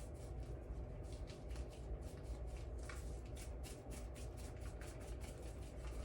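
Quick, irregular light ticking and rustling as powdered all-purpose seasoning is put onto chicken, over a steady low hum.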